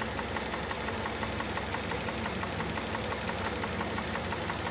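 Audi 3.0 TFSI supercharged V6 (CREC) idling warm with its intake hose off and the throttle body open, a steady run with a fast, even ticking.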